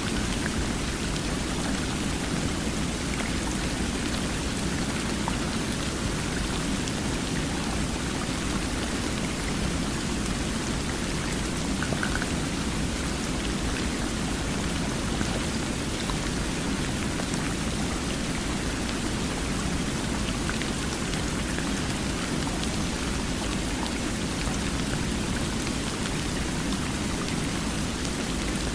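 Flowing water running steadily, an even, unbroken rush with no change in level and fine droplet-like patter over it.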